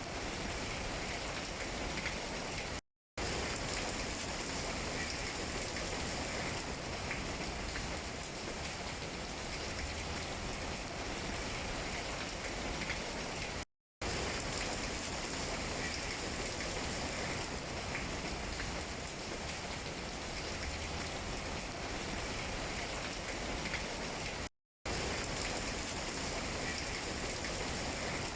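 Steady rain falling on tree leaves: an even hiss with faint scattered drip ticks. It cuts out to silence for a fraction of a second three times, about eleven seconds apart.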